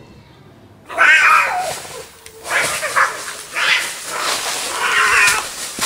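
A child's voice giving a run of loud, wavering cat-fight cries, about five in a row, as the puppet cat attacks and eats the mouse; the cries begin after a quiet first second.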